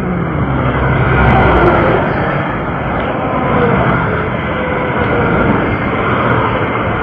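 Interstate traffic rushing by at highway speed, a steady roar of tyres and engines, with one vehicle swelling louder as it passes about a second in.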